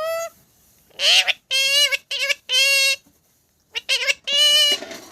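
A parrot giving a quick string of about half a dozen short, high-pitched calls, with brief pauses between them.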